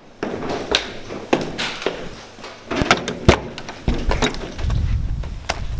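A series of sharp knocks and clicks inside a car, then a low engine rumble comes in about four and a half seconds in.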